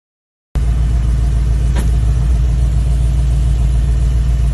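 After a moment of silence, a car engine idles with a steady low rumble.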